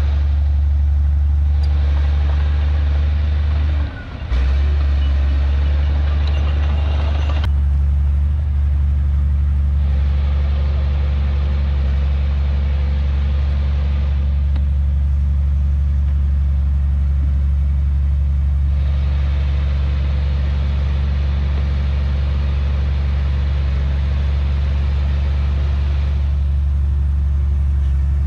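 Heavy diesel earthmoving machinery running steadily with a deep, constant hum. The sound dips briefly about four seconds in.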